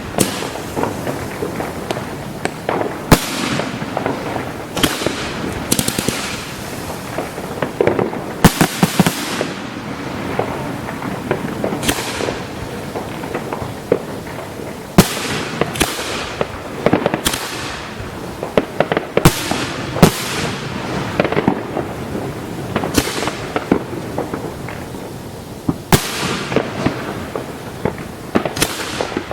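Aerial fireworks show heard close to the firing site: shells bursting one after another, about one sharp boom every one to two seconds over continuous crackling, with several bursts trailing off in a long fading hiss.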